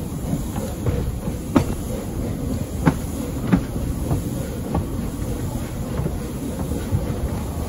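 Narrow-gauge train running on the track: a steady low rumble with a handful of sharp clunks between about one and a half and five seconds in.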